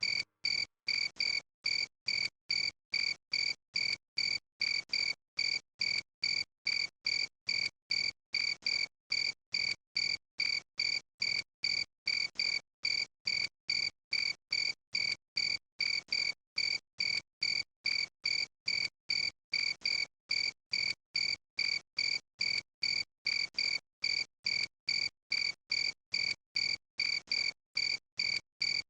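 Cricket chirping in a steady, even rhythm, between two and three high-pitched chirps a second.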